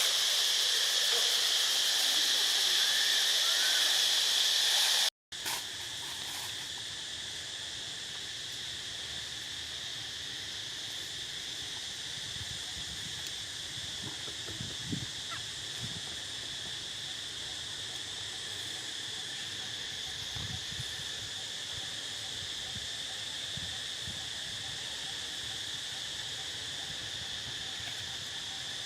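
Steady, high-pitched insect chorus. It is louder for the first five seconds, then drops out briefly and carries on more quietly, with a few faint low knocks around the middle.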